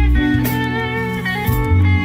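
Rock band playing an instrumental passage: sustained electric guitar notes over bass and drums, with cymbal hits about every second.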